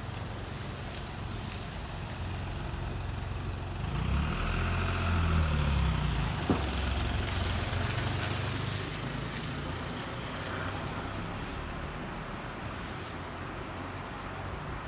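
A large road vehicle's engine rumbles past over steady city traffic noise, loudest between about four and nine seconds in, its pitch shifting as it goes. A single sharp click sounds about six and a half seconds in.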